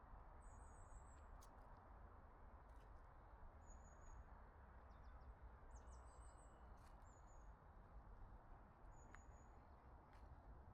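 Faint outdoor quiet with short, high-pitched bird chirps, brief trilled notes coming every second or two over a low steady rumble.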